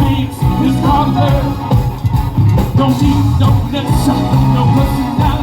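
Live funk band playing a driving groove, with bass, drums, guitars and keyboards.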